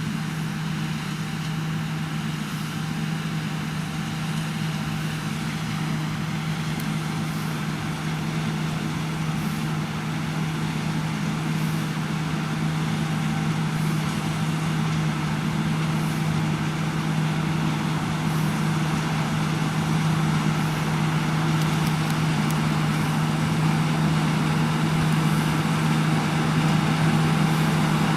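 Diesel engine of heavy farm machinery running steadily with a strong low hum, slowly growing louder.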